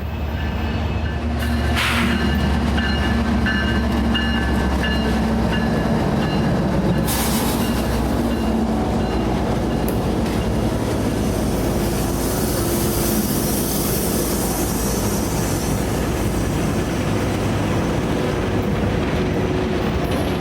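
Three GE GEVO diesel-electric locomotives, V12 four-stroke engines running, pass slowly. A deep engine drone and a high whine are strongest in the first several seconds. A string of empty hopper cars then follows, rolling by with steady wheel-and-rail noise and a high hiss in the middle of the passage.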